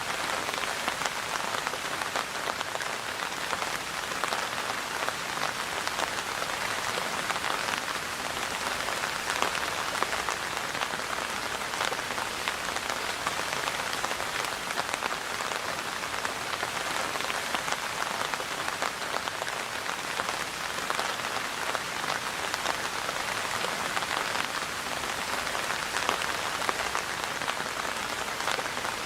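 Steady rain falling on a surface, a dense even hiss of raindrops with many small drop patters.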